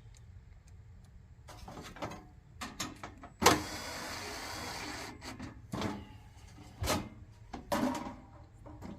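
Knocks and clatter of heater parts being handled and fitted during reassembly. About three and a half seconds in, a sharp start opens a steady hiss that lasts under two seconds.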